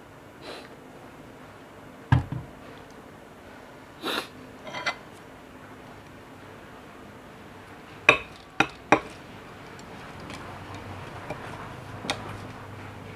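Tableware being handled while eating: scattered knocks and clinks. There is a heavy low knock about two seconds in and a few softer ones, then three sharp clicks in quick succession past the middle.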